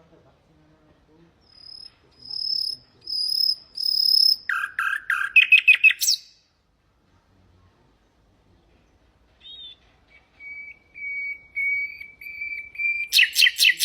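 Nightingale singing. A phrase of repeated high pure whistles runs into a quick run of rapid notes. After a few seconds' pause comes a long series of lower repeated whistles, ending in a fast rattle.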